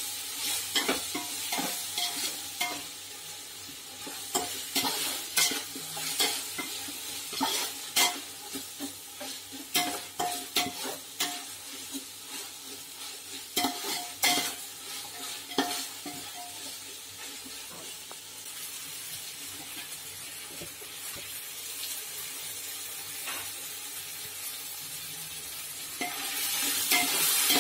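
Onions and mint sizzling in oil in an aluminium pot, with a metal ladle scraping and knocking against the pot as it is stirred; some knocks ring briefly. Near the end the sizzle gets louder as chopped tomatoes go in.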